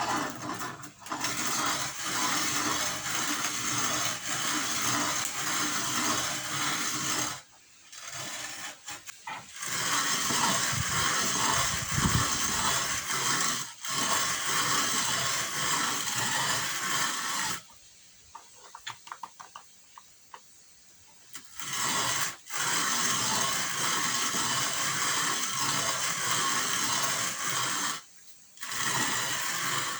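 A loud, steady mechanical noise in stretches of several seconds, broken by short pauses.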